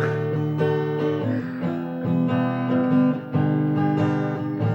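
Acoustic guitar playing a strummed chord intro, the chords changing every second or so.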